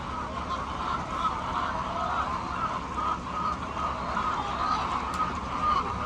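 A large flock of chickens calling all at once: many short overlapping clucks and calls forming a continuous chatter.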